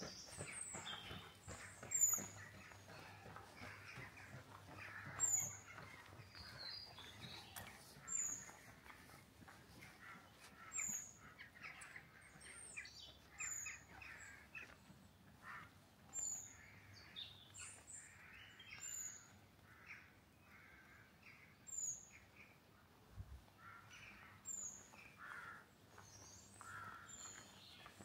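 A small songbird calling repeatedly: one short, very high, thin note every two to three seconds. Fainter chattering calls from other birds sound between them.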